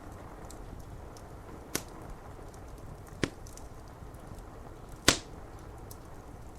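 Wood fire crackling with three sharp pops, the loudest near the end, over a steady hiss of rain and faint ticking of drops on window glass.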